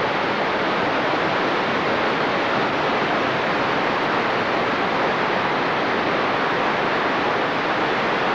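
A steady, even rushing noise that holds at one level throughout, with no distinct tones or strikes.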